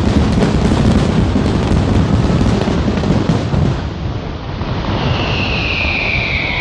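Fireworks display: a dense barrage of booming bursts and rapid crackling that thins out about four seconds in. A high, slightly falling whistling tone comes in near the end.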